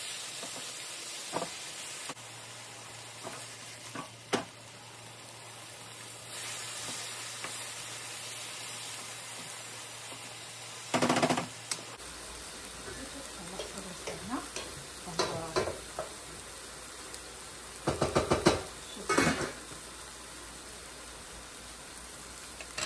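Thin strips of beef sizzling steadily in a hot wok over a gas flame, with a wooden spoon stirring and knocking against the pan now and then. Louder clattering comes about halfway through and again a few seconds before the end.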